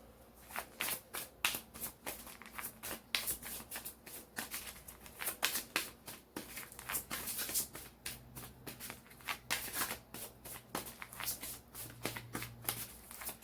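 A deck of cards being shuffled by hand: a long run of irregular, quick riffling clicks and slaps.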